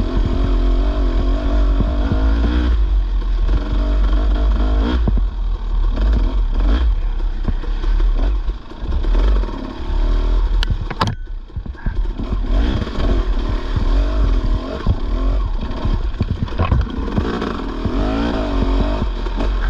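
Dirt bike engine running on a trail, its pitch rising and falling with the throttle, with knocks and rattles from the bike over rough ground. Briefly, about eleven seconds in, the engine drops off before picking up again.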